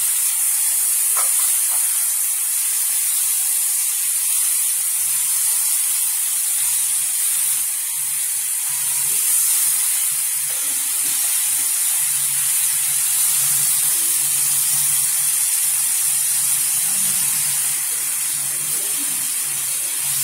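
Onion and spice masala frying in oil in a nonstick pan, a steady sizzle as freshly added chopped tomatoes are stirred in with a spatula.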